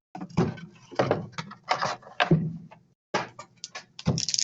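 Trading-card boxes and packs handled on a table: a few separate knocks and clatters, then quick clicks and crinkling of pack wrappers near the end.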